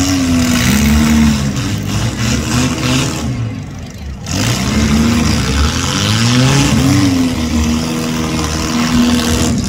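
Demolition derby car engines revving again and again, the pitch climbing and falling several times, with a short lull about four seconds in and a steadier hold near the end.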